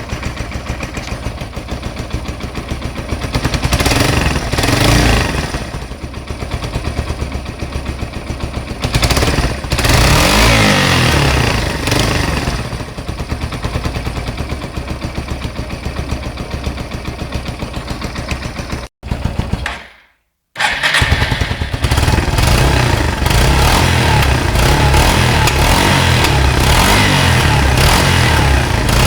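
Yamaha SR 125's single-cylinder four-stroke engine running through its exhaust, revved up and back down twice in the first half. The sound breaks off for about a second and a half two-thirds of the way through, then the engine runs steadily again.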